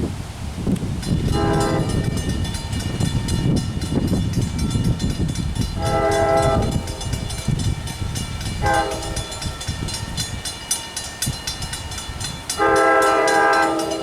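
Train horn sounding the grade-crossing signal, two long blasts, a short one and a final long one, the last the loudest, over the rumble and rapid wheel clicking of the passing train.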